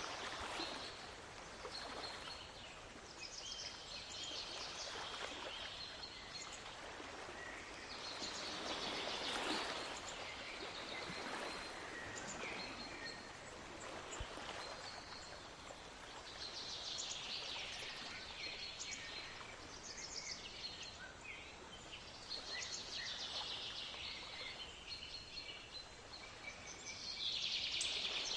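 Sea waves washing in and out in slow swells, with several songbirds singing rapid trills and short whistled notes over them.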